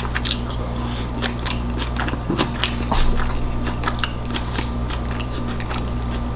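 Close-miked chewing of a soft salmon taco in a handmade tortilla: a run of small wet mouth clicks, with a steady low hum underneath.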